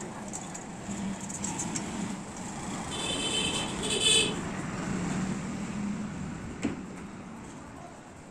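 Large wood-cutting band saw running with a steady mechanical hum. About three and four seconds in come two short high-pitched squeals, and a sharp knock follows near the end.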